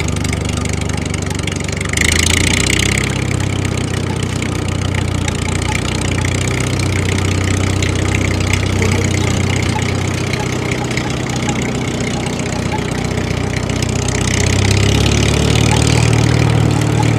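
Engine running steadily, as on a mini tractor, with a jump in level about two seconds in and again near the end.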